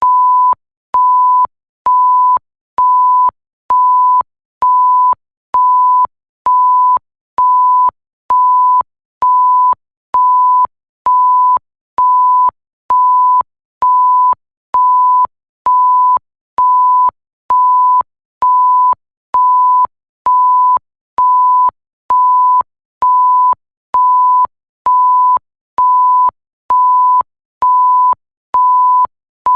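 Electronic censor bleep: a single pure, high tone sounding in short, evenly spaced beeps, a little more than one a second, each starting and stopping with a slight click.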